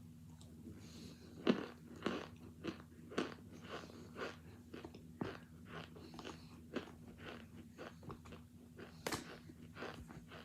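A person biting and chewing hard cornstarch chunks, with a string of sharp crunches, one or two a second. The loudest bites come about one and a half seconds in and again near the end.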